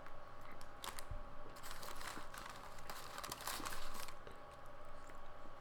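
Close, irregular crackling and rustling of a sandwich being eaten: a run of short crackles with no steady rhythm.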